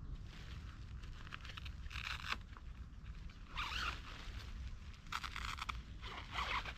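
Four short rasping strokes, each about half a second long, over a low steady rumble.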